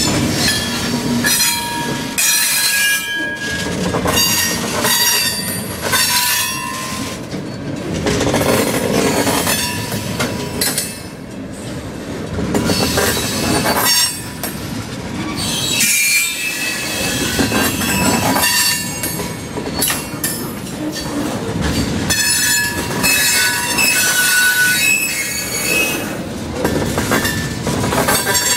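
Train running past, its wheels squealing in high, shifting tones over the rumble and clatter of the cars.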